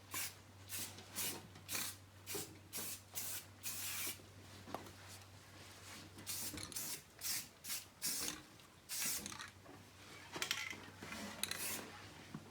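Aerosol spray-paint can sprayed in many short bursts, about two a second, with a sparser pause in the middle, laying on a light, thin coat.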